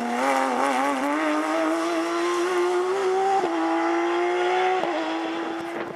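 Porsche rally car's flat-six engine accelerating hard, its pitch climbing steadily and dropping suddenly twice, after about three and a half seconds and again near five seconds, as it changes up through the gears.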